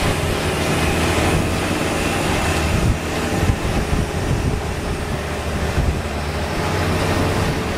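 Long-tail boat engine running steadily under way, a loud even drone with water and wind rushing past and a few short thumps near the middle.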